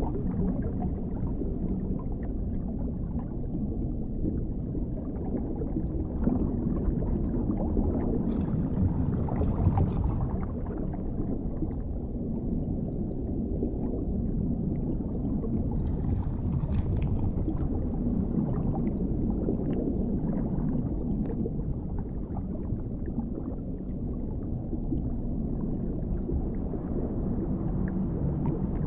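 Dark underwater ambience: a steady, low, muffled rumble with a faint hum underneath and scattered faint crackles and gurgles.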